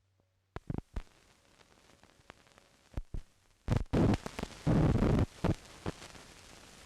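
Hiss and irregular crackles of an old optical film soundtrack, with a cluster of louder pops and thumps about four to five seconds in.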